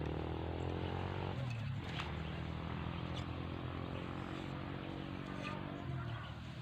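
A motor running with a steady hum. Its pitch drops in the first second or so, then it cuts out near the end, with a click about two seconds in.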